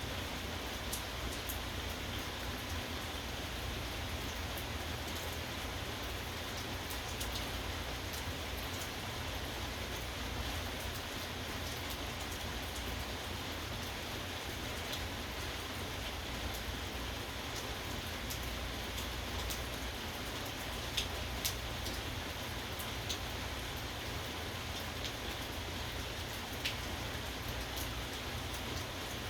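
Steady rain falling, with scattered individual drops ticking sharply now and then, a few louder ones past the middle.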